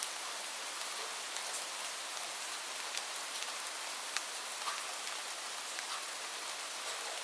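Steady rain falling, a continuous hiss with scattered sharp drops tapping on a hard surface.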